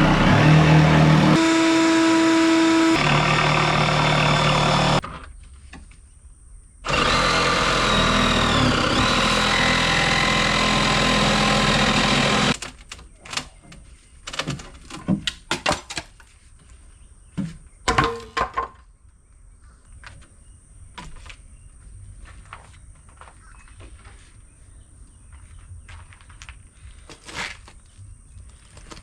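A power tool runs loudly in two stretches of about five seconds each, its pitch holding and then stepping to a new level, then gives way to scattered knocks and clatters.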